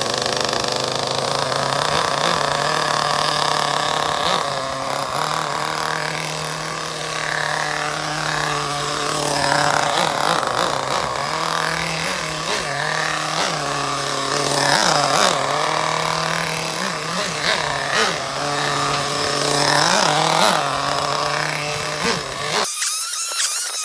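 O.S. Max 30VG nitro engine in a Losi 8ight 2.0 1/8-scale buggy running during its first break-in tank, holding a steady buzz with repeated short rises and falls in pitch as the throttle is blipped through a figure of 8. The low engine tone cuts off abruptly near the end.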